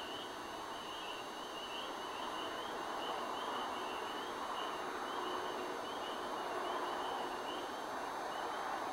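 Steady outdoor background noise with a high chirping that repeats quickly, a few chirps a second, fading out in the later part.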